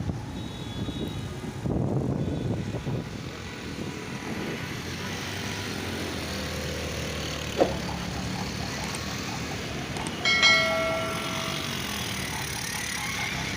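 Road traffic running steadily in a jam, with low wind buffeting on the microphone in the first two seconds. A vehicle horn sounds once, a single held blast of just under a second, about ten seconds in.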